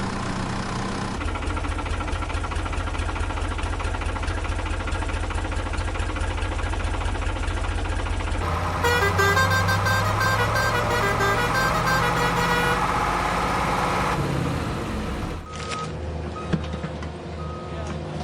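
Cartoon vehicle sound effects: a heavy engine running steadily, growing louder and busier for about five seconds in the middle, then settling into a lower pulsing run.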